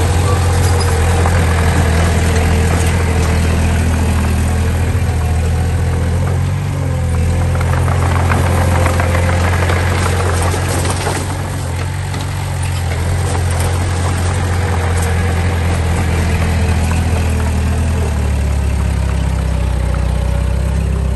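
Diesel engine of heavy earthmoving machinery running steadily with a deep, low hum, its pitch settling a little lower near the end.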